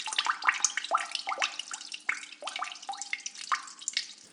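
Water trickling and dripping: a continuous run of small plinking drops and bubbly blips, several a second.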